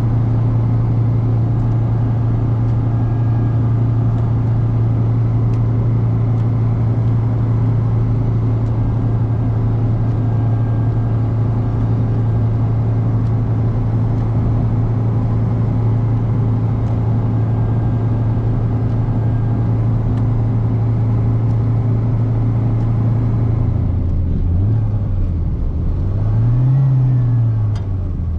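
Fiat Seicento Sporting's 1.1-litre four-cylinder petrol engine running at steady revs while the car drives along at a constant speed, with a hiss of road noise. Near the end the engine note drops, then rises and falls twice as the revs change.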